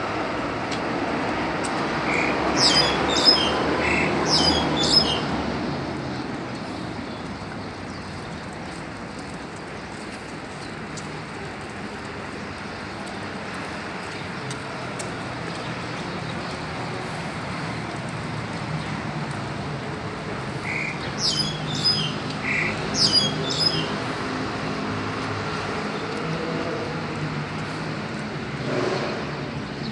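Wild birds calling in two short bouts of sharp, falling high-pitched notes, a few calls each, over a steady outdoor background hum that swells in the first few seconds.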